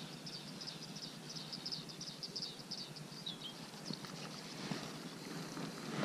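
Quiet waterside ambience with a small bird repeating short high chirps in quick series and giving a brief falling call about three seconds in.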